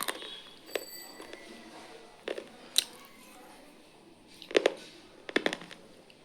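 Crunchy noodles being bitten and crunched: a handful of separate sharp crunches spaced irregularly, the loudest a little past the middle.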